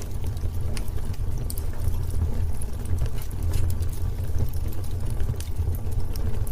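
Wood fire burning with a steady low rumble of flames and irregular sharp crackles and pops from the burning logs.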